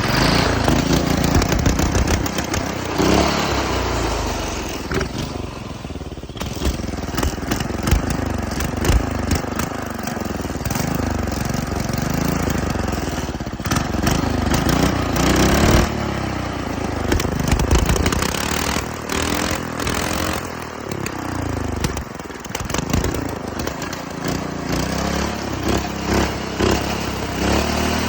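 Small pull-start go-kart engine with a new 30 mm carburetor running loud, revved up and down again and again. The owner cannot get it to keep running on its own, and it dies when the throttle is let off.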